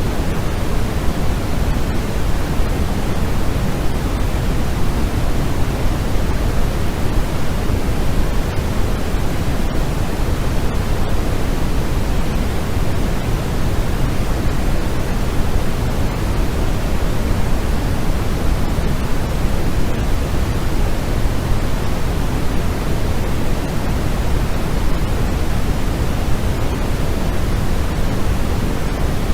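Steady, unbroken noise played for sleep, sold as white noise but deeper in tone, with most of its weight in the low end like pink noise.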